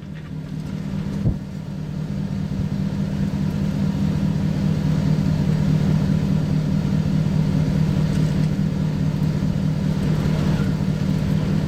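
Car running with a steady low engine hum and road noise, growing louder over the first few seconds as it picks up speed; a single sharp click about a second in.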